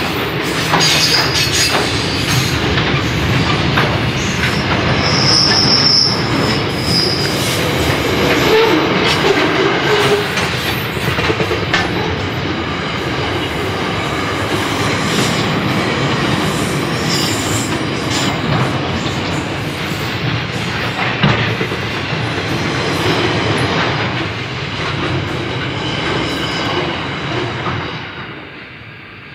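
Freight train wagons rolling past at speed, their wheels clicking over rail joints, with a brief high wheel squeal about five seconds in. The sound fades as the end of the train passes near the end.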